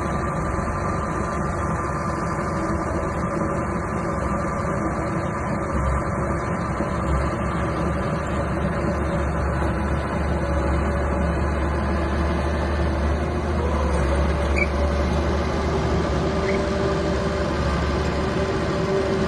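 Small bulldozer's diesel engine running steadily. About two-thirds of the way through, a higher whine comes in and holds.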